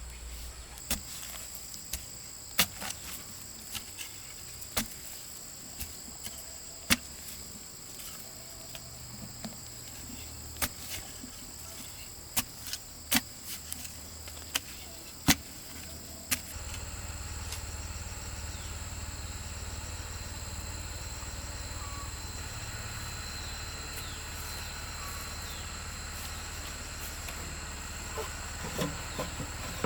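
Steady high-pitched insect calls, with sharp knocks at irregular intervals, every second or two, through the first half that stop about halfway through.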